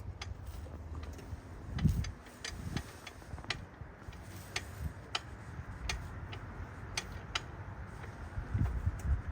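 Irregular sharp clicks, about one or two a second, over a low rumble, with a few dull thumps about two seconds in and again near the end.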